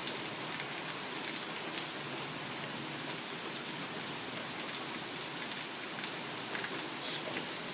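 Heavy rain falling steadily, with a few sharper drops striking close by.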